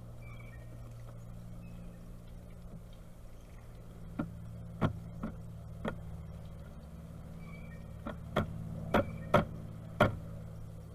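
Pileated woodpecker pecking at a bird feeder: sharp, irregular knocks in two bursts, four a little before halfway and five more, louder, near the end. A low steady hum and faint small-bird chirps sit underneath.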